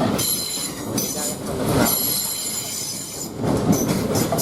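Class 450 Desiro electric multiple unit pulling out along the platform. The carriages rumble past with a high-pitched squealing whine over the wheel noise.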